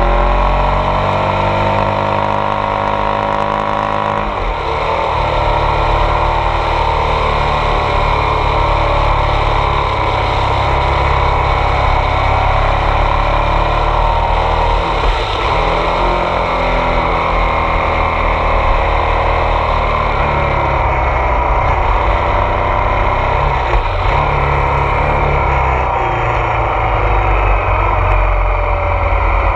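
Ducati Multistrada 1200 S DVT's 1198 cc Testastretta V-twin pulling uphill under throttle, with wind rush on the microphone. The engine note dips and climbs again about four, fifteen and twenty-four seconds in.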